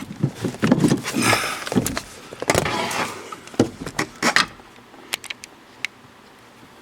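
Hand tools and metal parts being handled in a truck cab: a run of clinks, knocks and rattles that thins out after about four and a half seconds to a few scattered sharp clicks.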